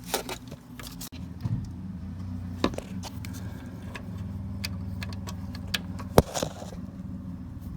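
Metal clinks and clicks of hand tools working a bolt on the engine, with a sharp click about six seconds in the loudest, over a steady low mechanical hum.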